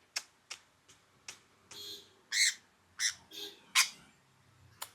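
Pet parrot giving a string of short, sharp squawks and chirps, about ten in all, a few of them longer and harsher.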